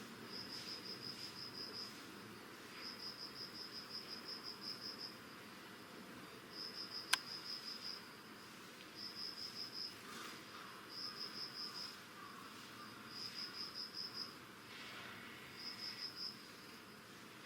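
Autumn insect chirping in trains of quick, high pulses, each train lasting one to two seconds and repeating after short gaps. A single sharp click, the loudest sound, comes about seven seconds in.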